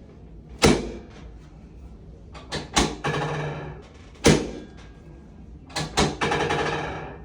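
Chiropractic drop table's drop sections clacking down under the chiropractor's thrusts: about six loud, sharp knocks, a pair of them close together twice, some followed by about a second of rattling noise.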